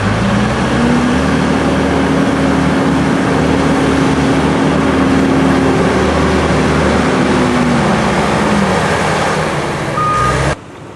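Heavy vehicle engine running loud. Its pitch climbs in the first second, holds steady, then eases down near the end. A brief high beep sounds just before the sound cuts off abruptly.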